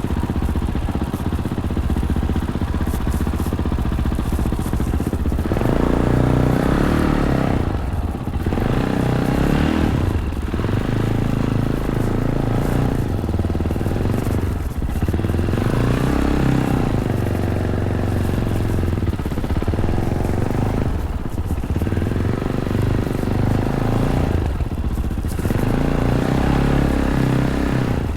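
Fantic Caballero 500's single-cylinder engine through its stock Arrow exhaust, revving up and backing off every three to four seconds as the throttle is opened and closed on a trail. Wind noise and the clatter of the bike over the rough surface run underneath.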